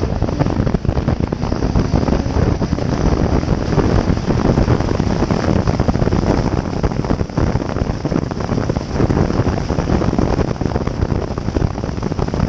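Mk3 Supra's single-turbo 2JZ straight-six car running at speed, heard as a loud, rough rumble with no clear engine pitch, mixed with wind and road noise.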